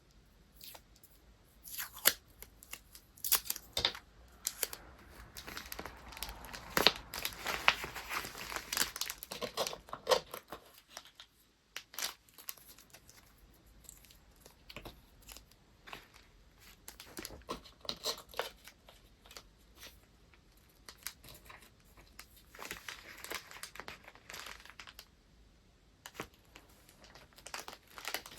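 Paper and packing materials being handled during gift wrapping: rustling and tearing with sharp clicks and taps. The handling is busiest for the first third and again about three quarters of the way through.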